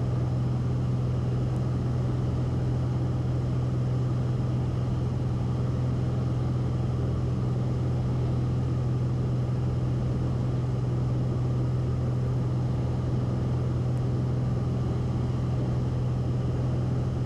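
Steady drone of a Cessna 172RG's engine and propeller heard inside the cockpit in flight, a strong low hum over even noise that holds constant with no change in power.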